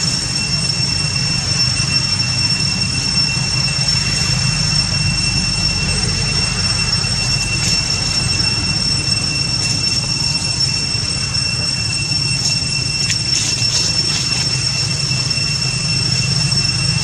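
A steady high-pitched drone, two pure tones held without a break over a hiss, with a steady low hum beneath, and a few brief clicks about thirteen seconds in.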